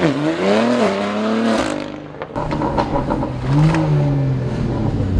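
BMW G80 M3 Competition's twin-turbo inline-six, breathing through catless downpipes and a valved exhaust, accelerating hard: the revs climb through a quick upshift and fall away as the throttle is lifted. A burst of exhaust crackles and pops follows, then the engine settles to a lower, steadier note.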